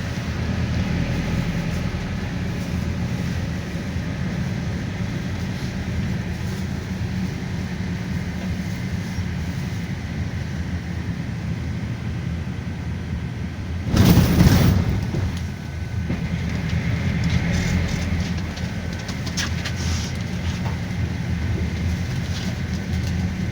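Cabin noise of a GAZelle Next minibus on the move: a steady low engine and road rumble. About fourteen seconds in, a louder rush lasting about a second cuts across it.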